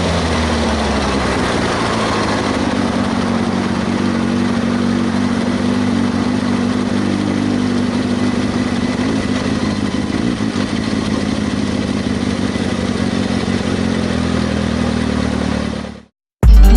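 Kawasaki ZX-6R 636's inline-four engine running at steady revs. The sound cuts off abruptly shortly before the end, and music starts.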